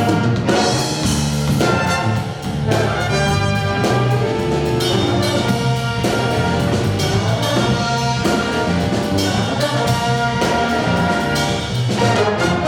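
A school jazz stage band playing a funk tune in its closing bars: trumpets and trombones in short accented hits and held chords over a steady bass line.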